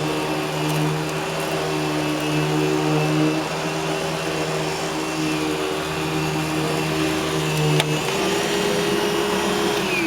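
Eureka The Boss Smartvac 4870 upright vacuum running steadily, its brushroll clutch going bad. Near the end a click is followed by a change in the hum, and the motor starts to wind down in pitch at the very end.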